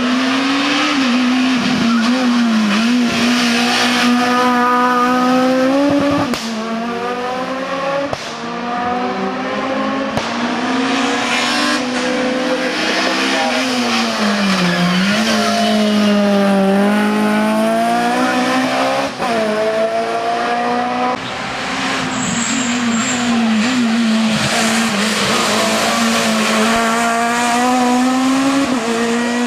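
Race car engine at high revs climbing a mountain road. The revs rise and drop sharply again and again through quick gear changes, with a deeper dip about halfway through.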